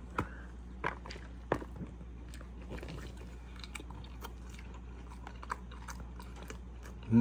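A person biting into a soft tortilla taco and chewing it, with a few sharp mouth clicks in the first two seconds, then quieter, scattered chewing sounds. A steady low hum sits underneath.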